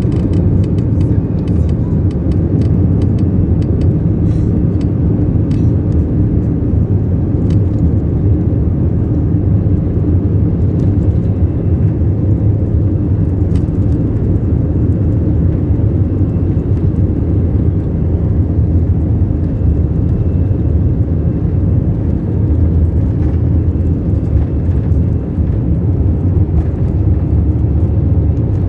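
Airbus A321 on its takeoff run: a steady, loud, low rumble of jet engines at takeoff power and wheels on the runway, with scattered rattling clicks, most of them in the first several seconds.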